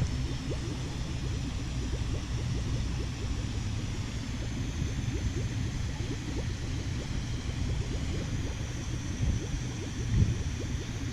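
Wind buffeting the microphone: a steady low rumble with small crackles.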